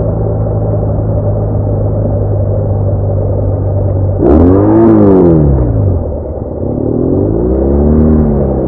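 BMW R1200R boxer-twin engine running at a steady cruise. About four seconds in, the engine note rises and falls once, and it does so again about seven seconds in.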